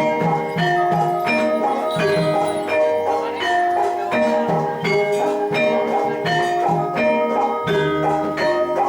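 Javanese gamelan music accompanying jathilan: tuned metallophones playing a ringing melody over a steady beat of struck percussion, about two strokes a second.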